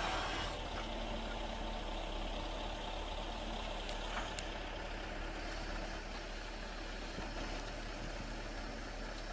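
Engine of a tracked forestry loader running steadily at an even pitch.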